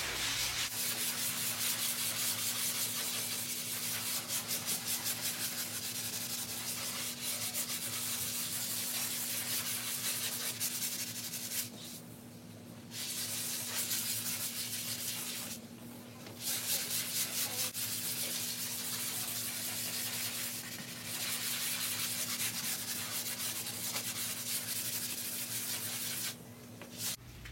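Sponge sanding block rubbed in circular motions over dried quick-set joint compound on drywall, smoothing the patched screw pops before the next coat. A steady scrubbing that stops briefly three times.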